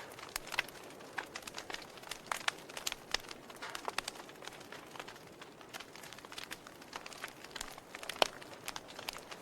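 Wood fire in a fireplace crackling, with irregular sharp pops over a steady hiss; the loudest pop comes about eight seconds in.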